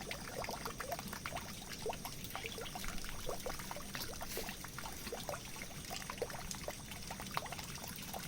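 Water pouring and trickling steadily, full of small separate plops and bubbling drops over a constant hiss.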